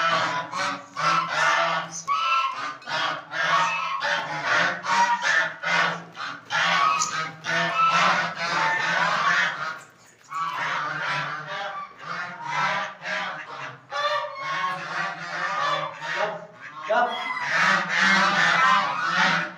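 Domestic fowl calling over and over in loud honking calls, many short calls packed close together, with a brief lull about ten seconds in.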